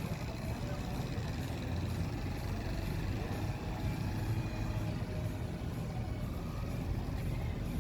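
Steady low rumble of vehicles, with a faint rising and falling pitch about three seconds in.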